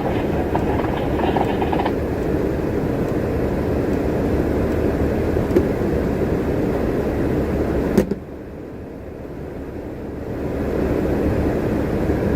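Bus interior noise from the driver's seat: a steady drone of engine and road noise. There is a sharp click about eight seconds in, after which it goes quieter for a couple of seconds before building back up.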